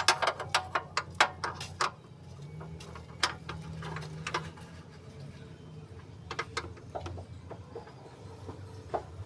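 Quick run of sharp metallic clicks and taps, then scattered clicks: tools and a bolt being handled while a guide pin is fitted at a car's wheel. A faint low hum runs for a couple of seconds in the middle.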